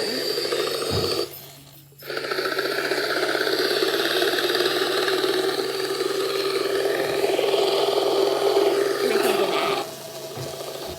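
Loud, steady machine whirring, like a household appliance's motor. It cuts out briefly about a second in, starts again, and drops away near the end.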